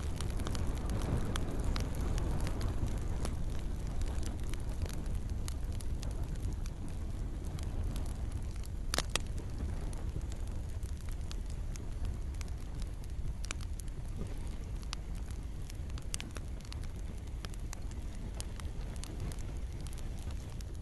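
Campfire crackling, with scattered sharp pops and one louder snap about nine seconds in, over a steady low rumble of the flames.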